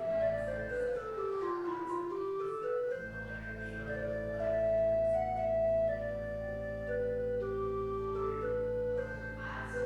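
Organ music: quick runs of notes stepping downward and back up, over low bass notes that come in about three seconds in and are held steadily.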